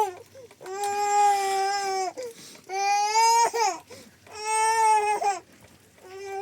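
A baby crying: three long, held wails of a second or so each, with short catches of breath between, and a brief fourth cry near the end.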